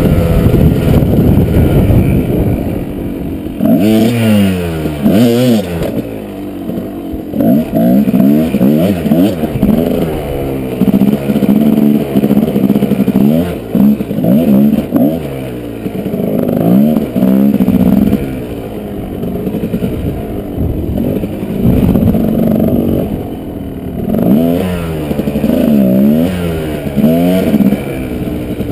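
Kawasaki KDX220 dirt bike's two-stroke single-cylinder engine revving up and down again and again as it is ridden, its pitch rising and falling every second or two.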